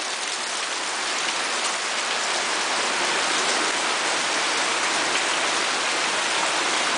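Heavy rain pouring down, a steady dense hiss that swells slightly over the first couple of seconds and then holds even.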